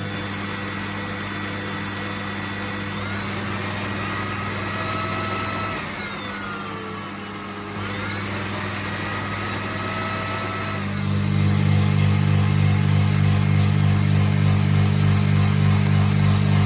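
Oil-less air compressor's electric motor running with a steady hum. For a stretch in the middle it is quieter, and a higher whine rises, drops and rises again. It comes back louder and steady about eleven seconds in.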